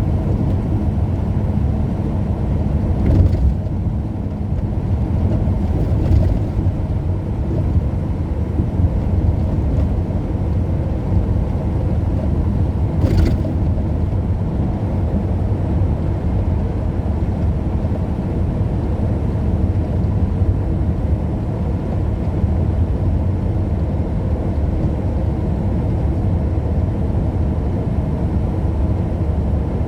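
Steady low rumble of a car driving, heard from inside the cabin, with three brief knocks or clicks early on and around the middle.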